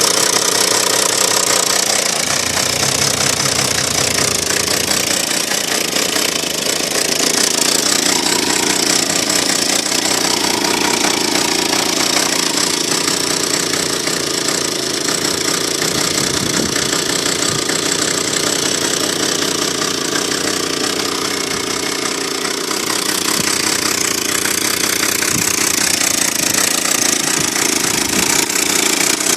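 Druzhba-4 two-stroke chainsaw engine running steadily, modified with a high-compression cylinder head from a petrol generator; its speed sags a little a couple of times.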